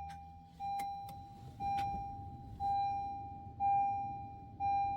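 2013 Honda Accord's dashboard warning chime sounding about once a second while the engine does not crank: the car's intermittent no-crank fault.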